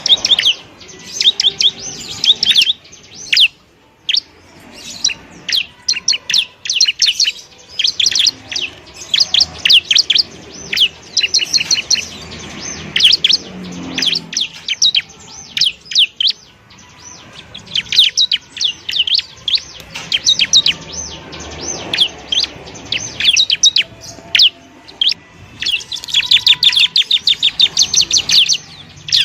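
Bar-winged prinia (ciblek) singing in fast, chattering runs of sharp high chirps, bursts broken by brief pauses.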